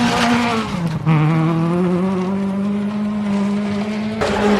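Peugeot 106 rally car's engine at high revs under hard acceleration: the pitch drops briefly about a second in as it changes gear, then holds and climbs slowly, with another break near the end.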